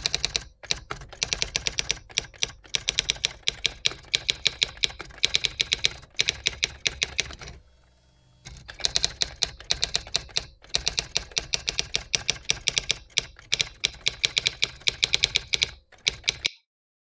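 Typewriter sound effect playing as slide text types onto the screen: rapid keystroke clicks, several a second. There is a short break about eight seconds in, and the clicks stop shortly before the end.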